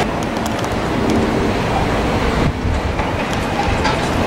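Southern electric multiple unit passing close alongside the platform: a steady rumble of wheels on rails, with scattered light clicks as the wheels cross rail joints.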